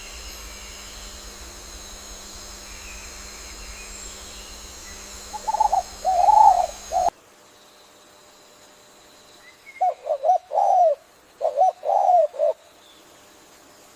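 A bird calling in short, low-pitched notes: a group of three in the middle that breaks off abruptly, then a run of about six more near the end, over a quiet natural background.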